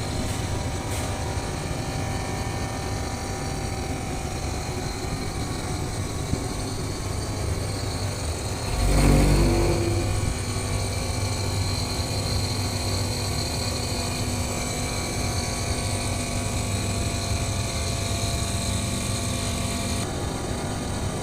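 Steady hum of a running three-phase air-conditioning unit and its electrical panel, with a constant low electrical drone and faint high-pitched tones. About nine seconds in there is a brief, louder low rumble.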